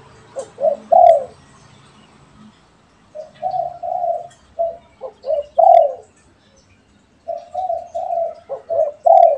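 Spotted dove cooing: three phrases of low coos, each a run of notes ending in a louder, falling coo, with pauses of about two seconds between them.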